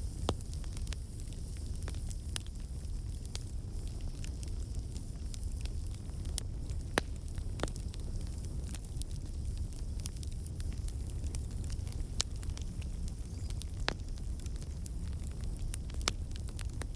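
Wood campfire burning: a steady low rumble of flame with irregular sharp crackles and pops from the logs, a few louder pops standing out, as water and sap in the wood turn to steam and escape.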